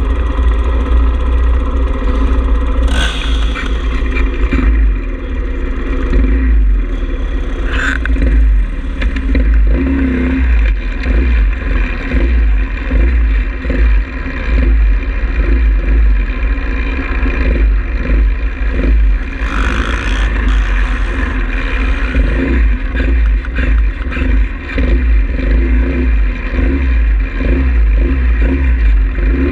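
Small single-cylinder pit bike engine running and revving under way, with heavy low rumble throughout and a few brief sharp noises.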